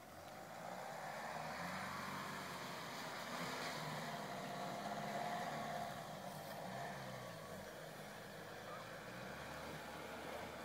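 Mercedes-Benz GLK SUV driving off-road on a steep wet grassy slope, its engine note rising and falling as it pulls. It grows louder in the first second or two.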